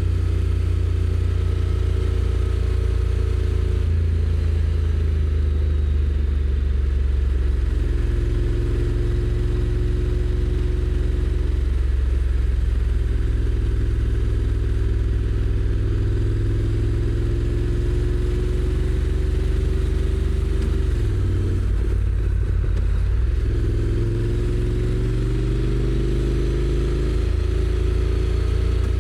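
Honda NC750X's 745 cc parallel-twin engine on stock exhaust, heard from the rider's seat while riding. The engine note climbs slowly under acceleration, drops abruptly about three quarters of the way through as the DCT gearbox shifts, then climbs again and drops once more at the very end.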